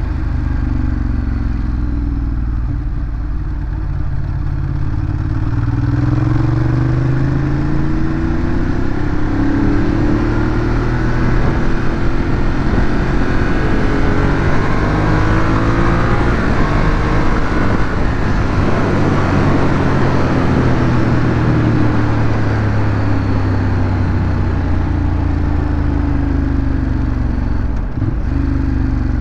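Ducati Monster 821's 821 cc L-twin engine through its stock exhaust while riding, its pitch rising and falling over and over as it accelerates and slows. A rush of wind-like noise builds through the middle of the stretch.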